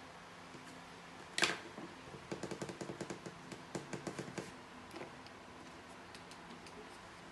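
One sharp click, then a quick run of small clicks, about six a second, for about two seconds, and a few scattered clicks after.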